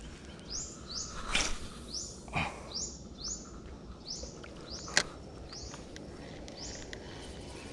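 A bird's short high chirp repeated about once a second, over faint outdoor background noise, with a few sharp clicks, the loudest about five seconds in.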